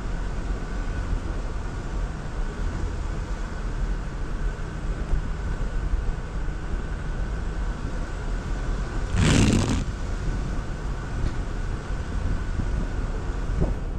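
Jeep Wrangler Rubicon driving at trail speed: a steady engine and drivetrain rumble with a faint steady whine. A brief, louder rushing noise comes about nine seconds in.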